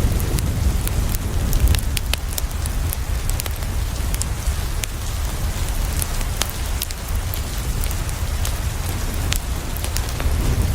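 Steady rain falling on a window mixed with a crackling wood fire: an even hiss over a low rumble, with frequent sharp, scattered crackles and clicks.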